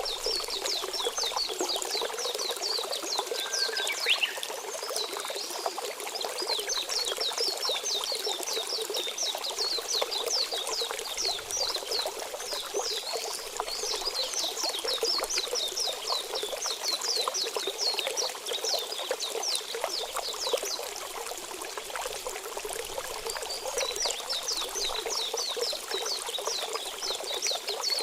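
Steady running water with a chorus of rapid, repeated high chirping calls in long runs that pause now and then. A short rising whistle comes about four seconds in.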